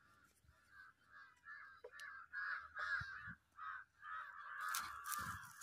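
A bird calling over and over in short, harsh calls that come faster and run together about four seconds in.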